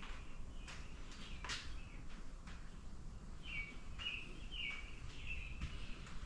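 Small birds chirping, short repeated calls that come in a quick run of about four in the second half, over a low steady background rumble, with a few sharp clicks.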